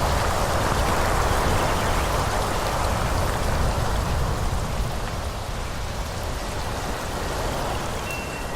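Wind rushing through forest trees: a steady hiss of moving leaves over a low rumble, louder in the first few seconds and easing after about five seconds.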